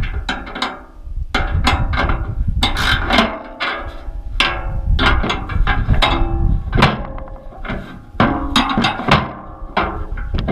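Metal parts of a steel motorcycle hitch rack clanking and knocking as they are handled and adjusted: many irregular metallic knocks, each with a brief ring.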